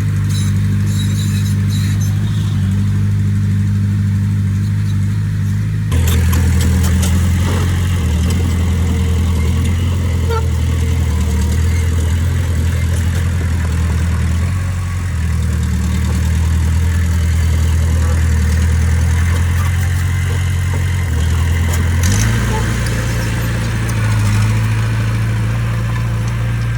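Heavy machine's diesel engine running steadily under work, its pitch stepping to a new engine speed about six seconds in and again near the end.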